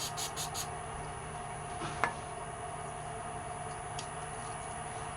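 Several quick spritzes of CA-glue accelerator from a pump spray bottle, stopping within the first second. A steady machine hum runs underneath, with a single sharp click about two seconds in.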